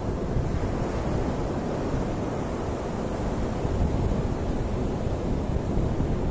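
Ocean waves breaking in a steady, continuous wash of surf, with a low rumble that sounds like wind on the microphone.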